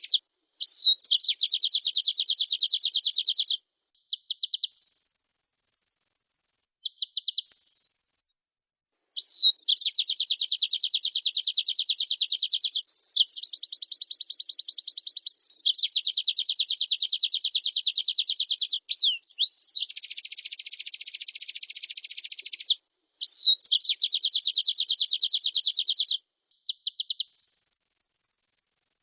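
White-eye (pleci) singing a loud, energetic song of rapid trilled phrases, each a few seconds long with short pauses between. A few phrases are pitched much higher than the rest.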